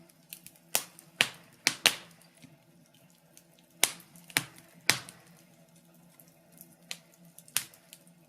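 Wood fire in a fireplace crackling: about ten sharp pops at irregular intervals, some in quick pairs, over a faint steady low hum.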